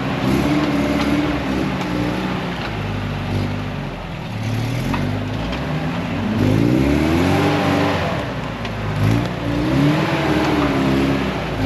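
Off-road 4x4's engine revving hard as it tries to climb a slick hill, its pitch climbing and dropping several times, with the biggest rise a little past halfway.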